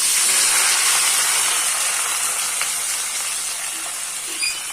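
Hot oil in a cooking pot sizzling loudly as food drops in: a sudden hiss that slowly eases off.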